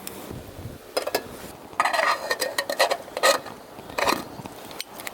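Metal camp cookware being handled, with repeated clinks and clicks and a ringing metal scrape about two seconds in and again after three seconds.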